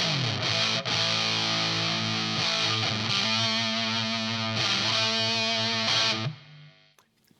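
Electric guitar played through a Sola Sound Esprit Blanc Mk IV Tone Bender fuzz pedal: thick, distorted chords with a fat, bassy fuzz tone, restruck a few times and left ringing. They are cut off and fade about six seconds in.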